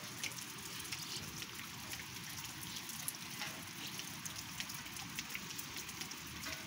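Steady rain: an even hiss dotted with the small ticks of single drops.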